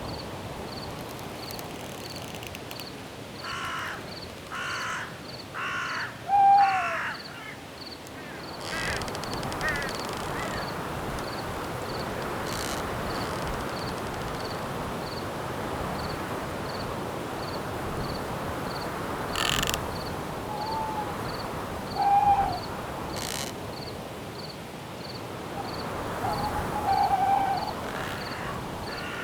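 Night forest ambience: a steady rush of wind in the trees, with a cricket chirping faintly and evenly, a little more than once a second. Four harsh calls come in a row a few seconds in, and short hooting calls sound a few times later, with a couple of sharp clicks in between.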